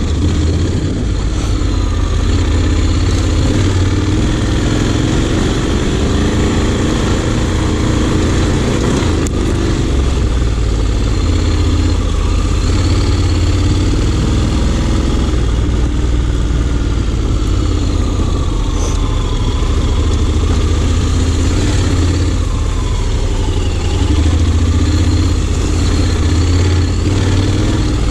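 Honda X-ADV 750's parallel-twin engine running under way, its note rising and falling with the throttle.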